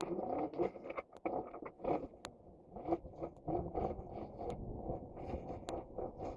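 Dirt bike engine running unevenly as the bike is ridden, heard faintly through a helmet-mounted camera, with scattered sharp clicks and knocks.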